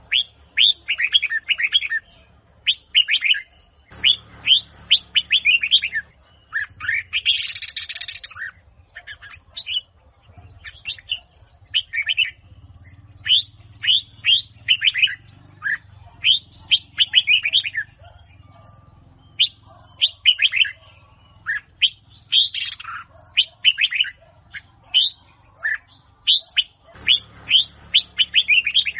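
Red-whiskered bulbul (Huế chào mào) singing: quick phrases of bright, falling chirps one after another with short pauses, over a faint low hum.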